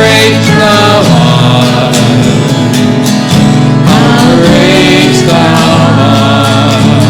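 A hymn sung with instrumental accompaniment, in sung phrases over sustained chords.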